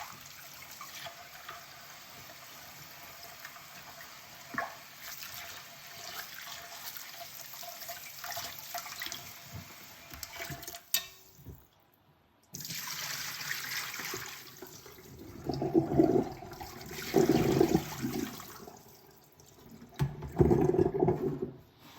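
Kitchen tap running into a sink during hand dishwashing, with occasional light clinks of dishes. The water stops for about a second near the middle, then runs again with three louder spells of splashing in the second half.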